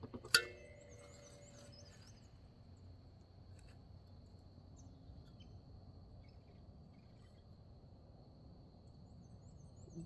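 A single sharp clink with a short ring about half a second in. After it, faint background with a steady high-pitched tone and a few faint high chirps near the start and the end.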